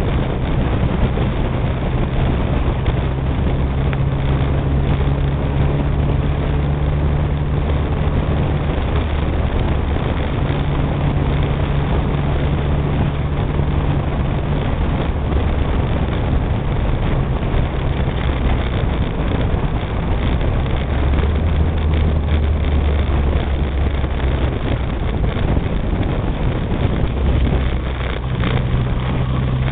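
Renault 6 TL's four-cylinder engine running as the car drives along a rough lane. Its note shifts up and down several times with speed and gear, over a steady rush of tyre and wind noise picked up by a camera mounted on the outside of the body.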